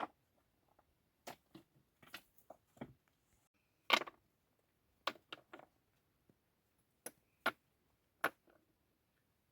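A scattered series of sharp clicks and light knocks, irregular and unevenly spaced, with quiet between them; the loudest comes about four seconds in.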